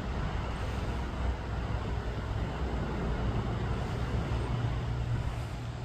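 Steady road-traffic rumble carrying from nearby roads, a continuous low drone with no single passing vehicle standing out.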